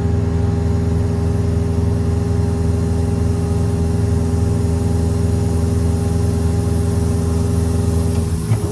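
Hydraulically driven truck-mounted air compressor running steadily, powered off the 6.7 L Power Stroke diesel through the PTO. Near the end it cuts out with a short clunk, leaving the diesel running on its own.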